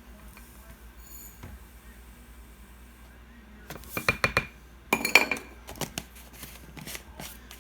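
Measuring cups and containers clinking and knocking together as dry ingredients (salt and citric acid) are scooped and poured. It is quiet at first, then comes a cluster of sharp clinks about four seconds in, another just after five seconds, and a few lighter knocks after that.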